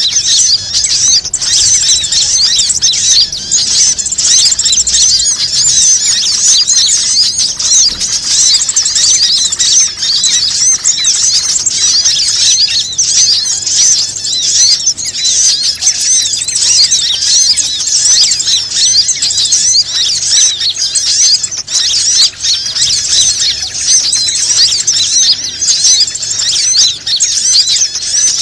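Bird lure call: dense, continuous high-pitched chirping of small birds, rapid wavering notes crowding over one another without a break.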